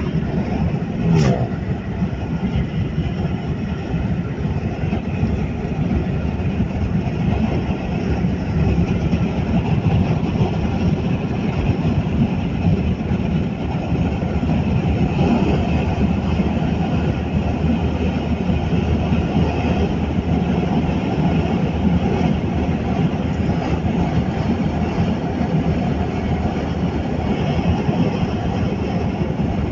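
A car driving along a road: steady engine and tyre noise, with a brief click about a second in.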